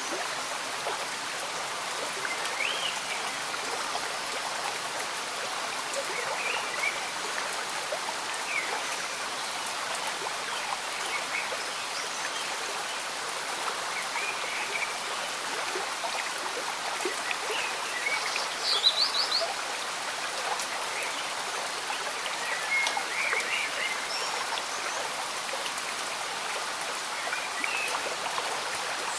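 Slow stream bubbling steadily under gentle rain, with short animal chirps scattered throughout and a louder cluster of calls about two-thirds of the way through.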